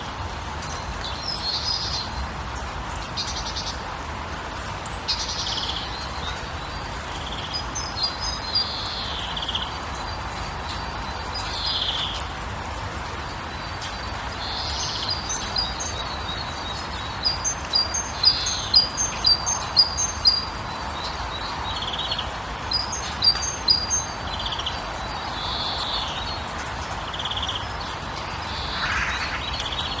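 Songbirds calling: short chirps in quick repeated runs, loudest between about 17 and 21 seconds in, and downward-slurred single calls, over a steady background hiss.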